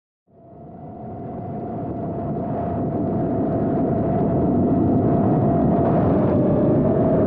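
A train approaching on the rails: a rumble that grows steadily louder over about five seconds, with a steady whine running through it that sags slightly in pitch near the end.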